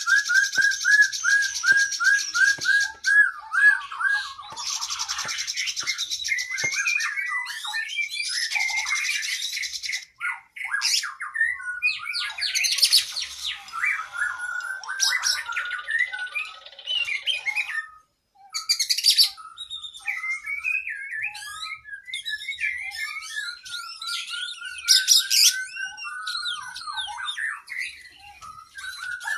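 Oriental magpie-robin (kacer) singing a long, varied song of rapid repeated whistled notes, trills and rattling phrases, including mimicked calls of other birds, with brief breaks about ten and eighteen seconds in.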